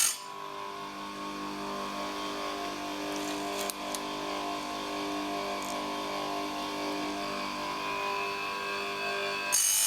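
Oregon 519789 bench chain grinder's motor running with a steady hum between tooth grinds, with a few faint clicks. The harsh grinding of the wheel on a cutter tooth starts again near the end.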